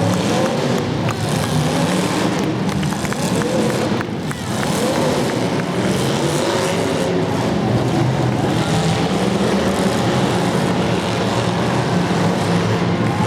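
Demolition derby cars' engines running and revving, their pitch rising and falling unevenly.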